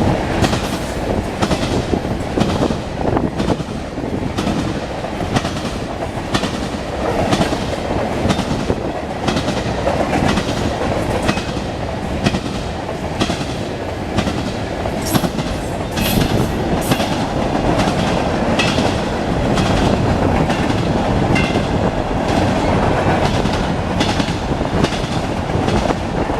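Freight train cars rolling past close by, the wheels clicking over rail joints in a steady rhythm of about two clicks a second over a continuous rumble.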